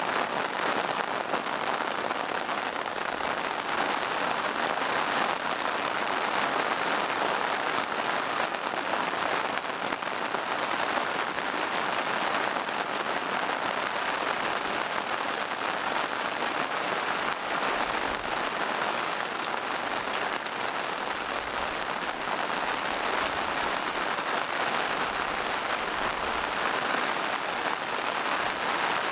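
Steady rain falling on forest foliage and moss-covered rocks, an even patter without a break.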